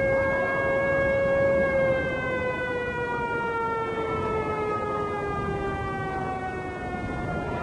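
A siren sound effect: one wailing tone held steady, then sliding slowly down in pitch from about two seconds in, like a civil-defense siren winding down.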